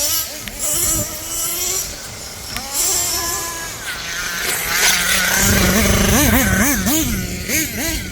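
Small nitro engines of RC monster trucks running and revving, their pitch rising and falling with the throttle, then blipped in quick repeated sweeps in the second half.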